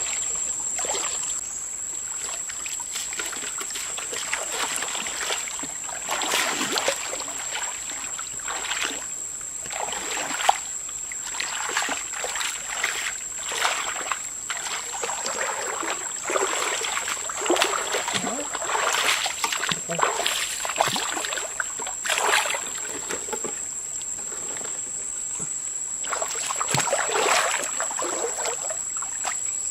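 Water splashing and sloshing in irregular bursts, over a steady high-pitched whine.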